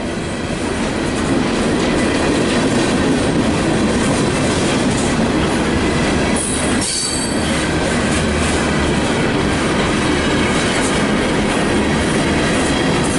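Freight train cars rolling past close by, a loud steady rumble of wheels on rails, with a brief high wheel squeal about seven seconds in.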